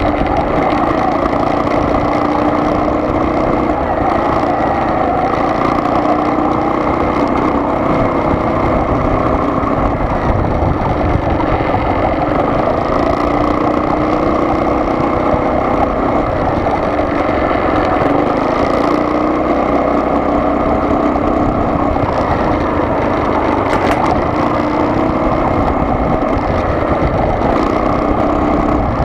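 Car running steadily on the road: a constant mix of engine hum and tyre and road noise with no change in speed.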